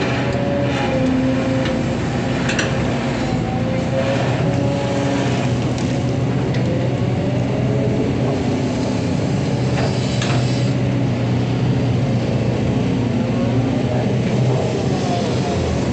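Hydraulic excavator working: its diesel engine runs steadily under a whine that rises and falls as the hydraulics move, with occasional sharp metallic clanks and squeaks.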